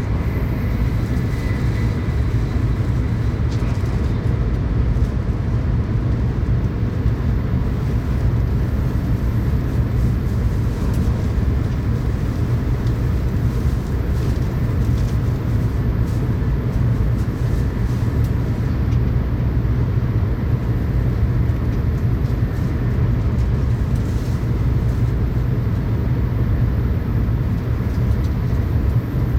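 Tokaido Shinkansen train running at speed, a steady low rumble heard from inside the passenger car.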